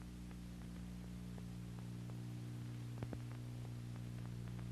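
Steady low electrical hum with faint scattered clicks and crackle: the background noise of the recording between lines of narration.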